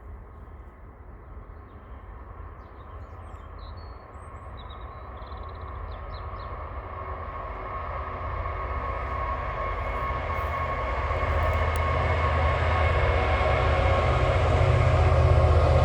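Freight train approaching, its low rumble and steady tones growing steadily louder.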